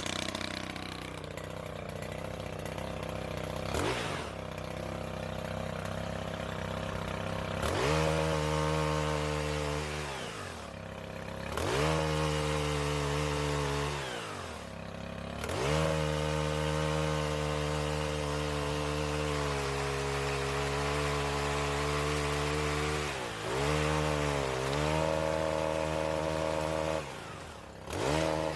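Stihl pole chainsaw idling, then revved to full speed about four times for a few seconds each, dropping back to idle between, as it cuts a crepe myrtle limb.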